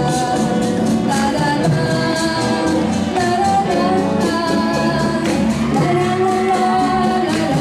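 A song: singing with instrumental accompaniment over a steady percussion beat.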